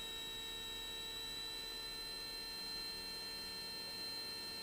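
Steady electrical hum with a high whine whose strongest tone rises slightly in pitch as a light aircraft's engine is brought up to takeoff power; the engine's own noise is barely heard under it.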